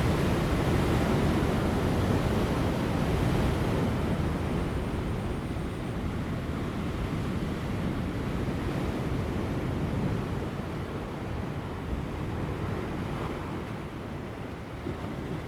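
Large ocean waves breaking on rocks, a continuous rushing wash that is strongest early on and eases off gradually toward the end, with light wind on the microphone.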